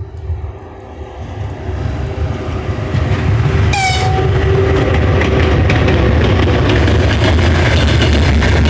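VL80T electric locomotive hauling a freight train, a low rumble that grows louder over the first three seconds as it approaches. A short horn blast about four seconds in, then steady loud running with wheels clicking over the rail joints.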